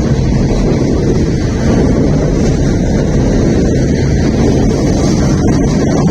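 Train passing close by: a loud, steady, deep rumble, mixed with wind buffeting the microphone.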